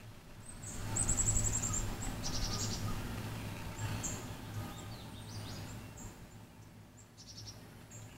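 Small birds chirping in the background: quick high trills about a second in, again a little later and near the end, with scattered single high chirps. A steady low hum runs underneath, and a brief low rumble swells about a second in.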